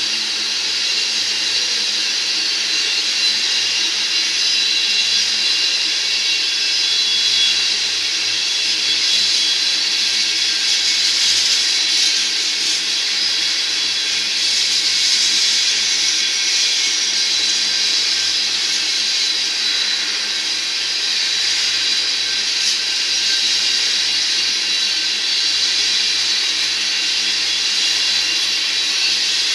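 Freight train of crude oil tank cars rolling past: a steady hiss and clatter of steel wheels on the rails, even in level throughout, with faint high tones running through it.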